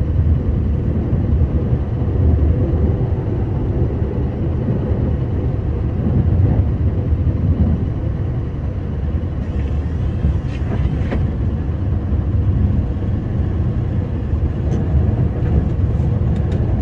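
Scania R560 truck's V8 diesel running steadily under load while plowing snow, a continuous low rumble with no change in pitch.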